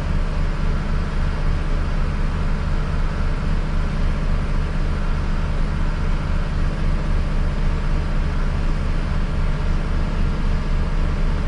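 Unimog Landstar diesel engine idling steadily with an even low throb, running to build up pressure in the truck's air system.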